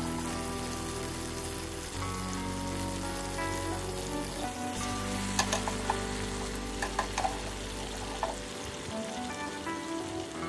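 Tomato wedges and garlic sizzling steadily in olive oil and juices in a frying pan, with a few sharp clicks about halfway through. Soft background music plays throughout.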